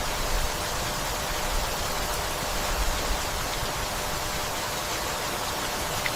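Steady rainfall, an even hiss with no breaks, with a few brief low rumbles underneath.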